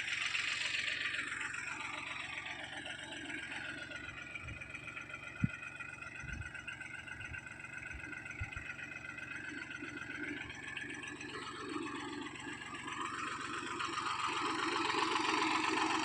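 Mini tractor engine running steadily. Its pitch drops over the first couple of seconds, then rises and grows louder toward the end, with a few low knocks in the middle.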